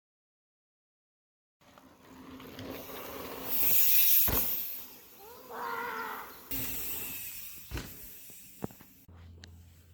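Mountain bike ride: wind and trail noise rush in after a second or two of silence and swell to a peak, then ease off. A short wavering squeal and a few sharp knocks follow, and a steady low hum comes in near the end.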